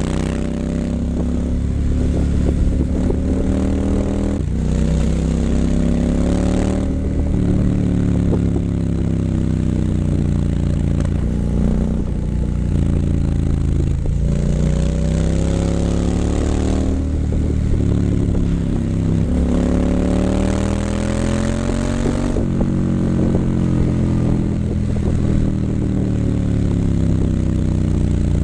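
2019 Triumph Scrambler 900's parallel-twin engine through an H-pipe and Vance & Hines exhaust, pitch climbing and falling again and again as the bike accelerates and rolls off the throttle. A couple of sudden drops in pitch mark upshifts.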